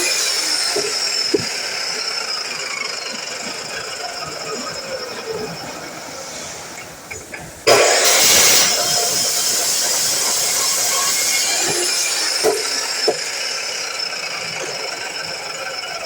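DeWalt miter saw motor running and winding down with a falling whine, then starting again with a sudden loud burst about eight seconds in and winding down once more. A few light knocks come in between.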